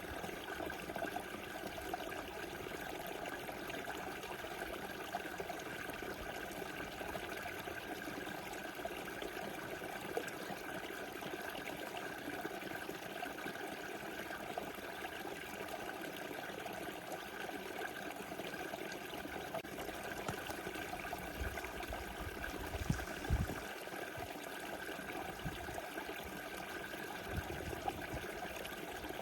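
Small river flowing: a steady rushing and trickling of water. A few brief low thumps come through about three-quarters of the way in.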